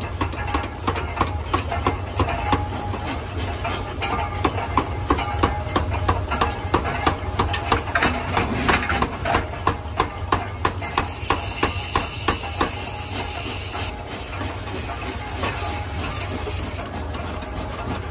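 Forging hammer striking a hot tractor gear blank in a steady rhythm of about two blows a second, over a constant low machine hum. The blows stop about twelve seconds in, leaving the machinery running.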